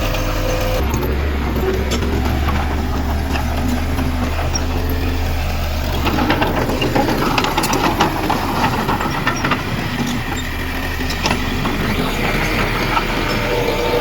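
Heavy diesel earthmoving machine running with a steady low rumble, its engine note shifting about a second in and again about six seconds in. From about six seconds in, a run of sharp knocks and rattles sounds over the engine for several seconds.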